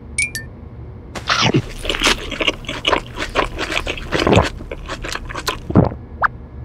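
Cartoon eating sound effects: a rapid run of crunchy munching and chewing as a whole burger is wolfed down, with a few quick falling swoops mixed in.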